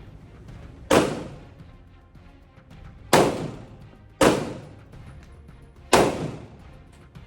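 Four single pistol shots from a 9mm Glock 19, fired one to two seconds apart at an uneven pace, each with a short echoing tail.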